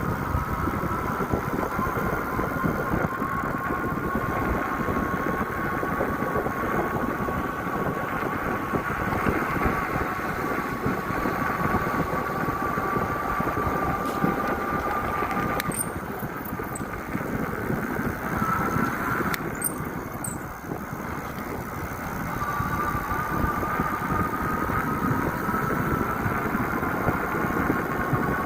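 A bike being ridden: steady running noise with a high whine that slowly rises in pitch, drops out for a few seconds past the middle, then comes back.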